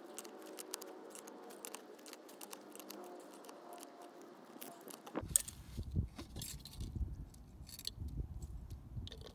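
Small clicks, taps and rattles of plastic and metal parts being handled as the second check valve assembly of a backflow preventer is pulled apart. A low rumble comes in about halfway through.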